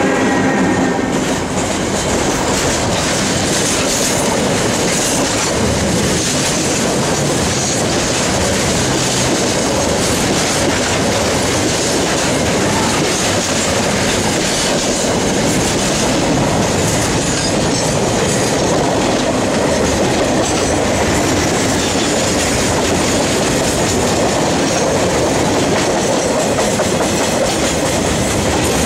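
Freight train's container wagons rolling past close by: a loud, steady noise of steel wheels on rail. In the first second a tonal whine from the trailing EF-class electric locomotive fades as it goes by.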